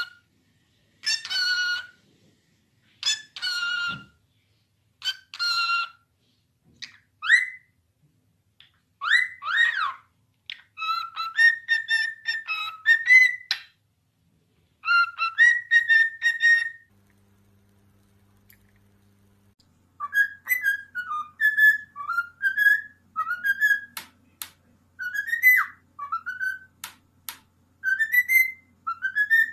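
A parrot whistling. It starts with three separate calls about two seconds apart, then longer whistled phrases, and after a short pause a quick run of short rising whistles mixed with sharp clicks.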